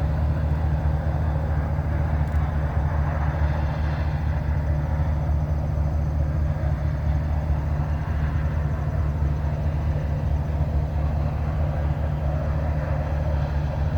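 A vehicle engine idling, a steady low drone with no change in speed.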